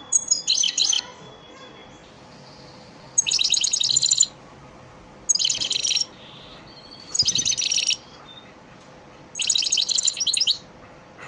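European goldfinch of the elmacık type singing: five short phrases of rapid, bright twittering, each about a second long, separated by pauses of a second or two.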